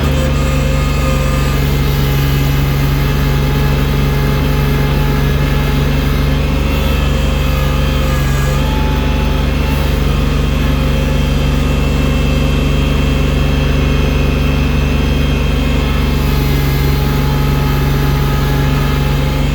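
Engine of a snow-clearing machine fitted with a loader bucket, running steadily at an even speed with a strong low hum.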